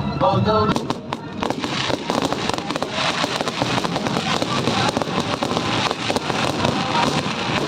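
Fireworks bursting in a rapid, dense volley of crackling reports, over music playing along with the display.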